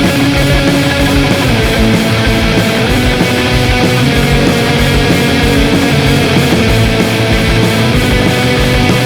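Instrumental rock music: distorted electric guitars over bass and drums with a steady beat, without vocals.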